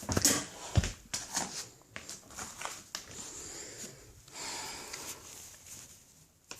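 Plastic housing of a vacuum cleaner being crushed: irregular cracks and creaks, the sharpest just under a second in, with a longer hissing stretch in the second half.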